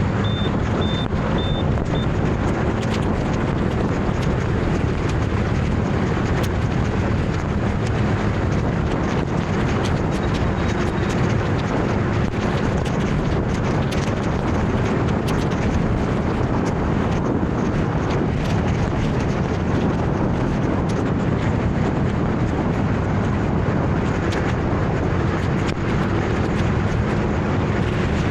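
Steady rushing wind noise on the microphone over the running of a motor scooter and the surrounding traffic.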